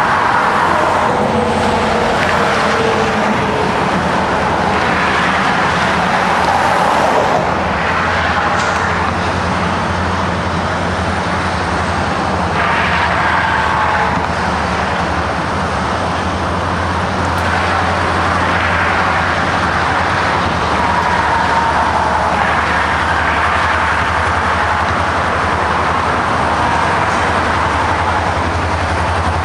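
Diesel-hauled freight train rolling past: a steady low engine drone under a loud, continuous rush of wheels on rail, with faint wavering squeals.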